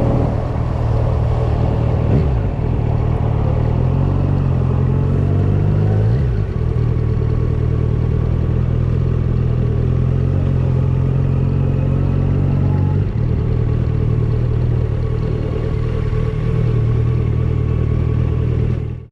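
Motorcycle engine running steadily under way, its note changing briefly about two, six and thirteen seconds in.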